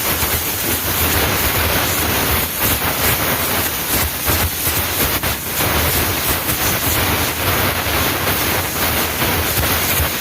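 Compressed air from a blowgun hissing steadily as it blows dust out of a truck's air filter element.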